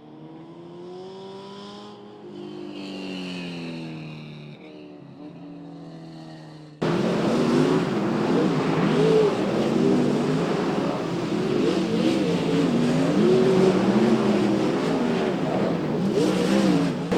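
Dirt-track race car engines, faint at first with their pitch sweeping up and down. Then, after an abrupt cut about seven seconds in, a loud pack of race cars running on the clay oval, engine pitch rising and falling as the drivers get on and off the throttle.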